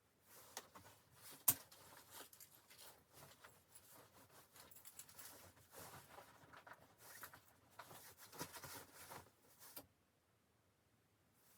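Faint rustling and handling noises with scattered small clicks, one sharper click about a second and a half in; it stops shortly before the end.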